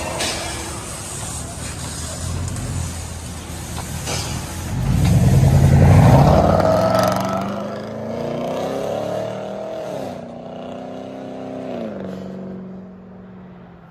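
2019 GMC Sierra 5.3L V8 with a true dual straight-pipe exhaust (2 1/4-inch pipes, no mufflers) idling, then revved hard about five seconds in and falling back in pitch to idle, fading near the end.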